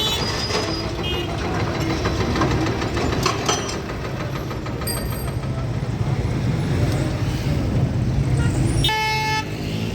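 Street traffic: vehicle engines running with a steady low rumble, and a short horn toot about nine seconds in.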